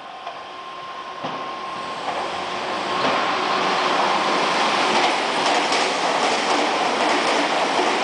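A Meitetsu electric train approaching, growing louder over about three seconds, then passing close by at speed with a steady rush of wheel and rail noise and clicks from the rail joints.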